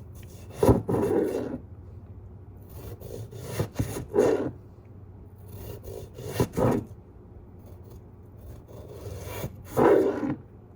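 Scraping on wood in four short bouts a few seconds apart, each lasting under a second.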